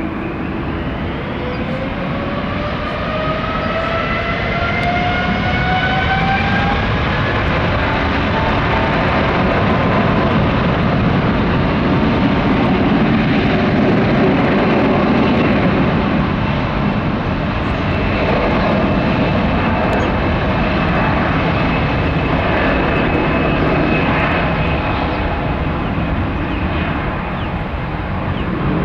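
Boeing 777-200's twin Pratt & Whitney PW4000 turbofans spooling up for takeoff: a rising whine over the first several seconds, then steady, loud jet noise as the airliner departs.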